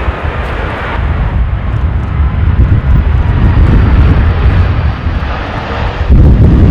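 Jet airliner passing close on its landing approach, its engines heard under heavy gusting wind buffeting the microphone. The low rumble jumps louder about six seconds in.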